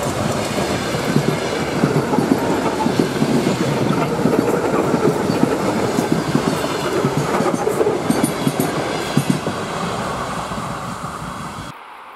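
Railway train wheels running over the track, a loud, continuous clattering rattle of wheels on rail joints, which cuts off suddenly near the end.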